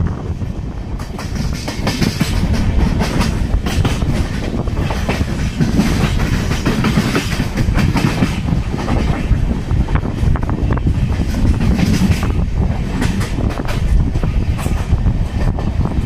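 Passenger train coaches running at speed, heard from an open coach doorway: steady rumble with the wheels clattering irregularly over rail joints and points.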